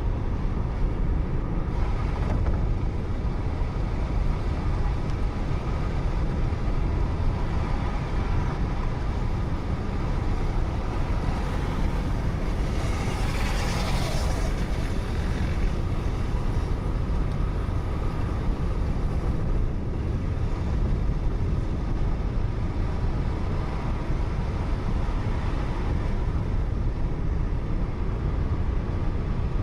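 Steady low road and engine rumble of a car driving, picked up by its dashcam, with a louder rushing swell about halfway through.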